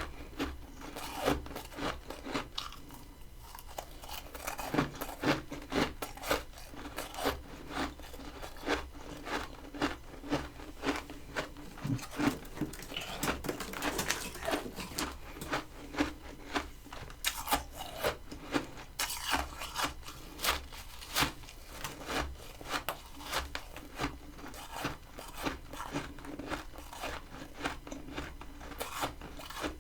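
Close-miked chewing of crunchy freezer frost: a steady run of crisp crunches, about two or three a second.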